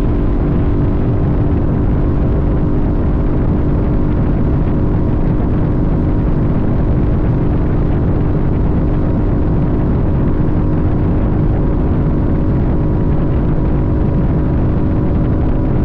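Sportbike engine holding a steady pitch while cruising, under a loud, even low rush of wind and road noise.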